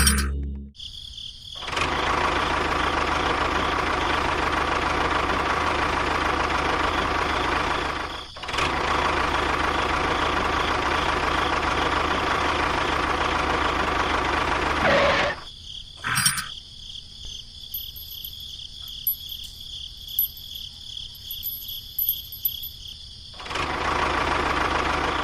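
Small electric motor running with a steady buzzing whir. It cuts out for a moment after a few seconds, stops about halfway through, and starts again near the end.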